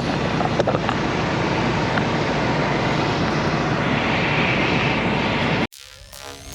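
Steady engine and road noise of a truck driving, heard from inside the cab. It cuts off suddenly near the end.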